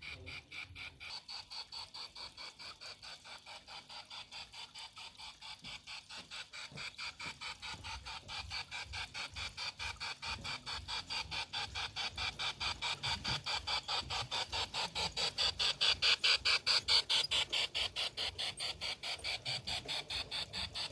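G-scale model train running on the garden track, giving a steady rapid clicking at about four clicks a second. The clicking grows louder as the train draws near and eases off slightly near the end.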